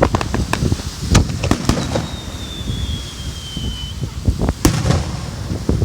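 Aerial fireworks bursting in a rapid series of sharp bangs and crackles. A thin whistle falls slowly in pitch through the middle.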